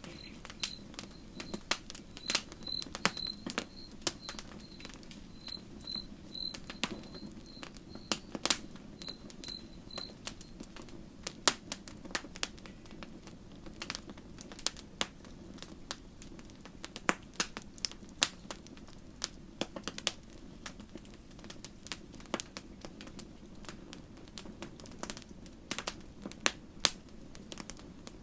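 Wood campfire burning, with frequent sharp crackles and pops over a low steady rush of flame. For about the first ten seconds a high, rapidly pulsed chirping runs alongside.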